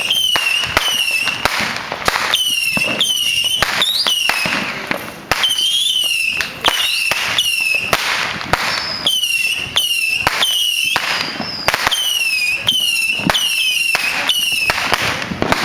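A dense barrage of consumer fireworks: rapid sharp bangs mixed with many short whistles that dip in pitch as they go, several a second, easing off at the very end.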